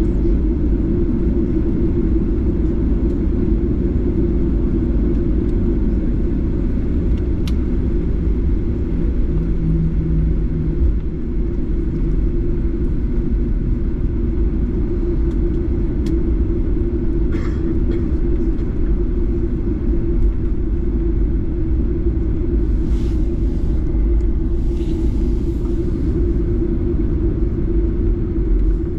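Steady, loud, low rumble of a Boeing 737-8's CFM LEAP-1B jet engines heard inside the cabin close to the engine. It holds level without rising or falling, with a few faint ticks and brief soft hisses over it.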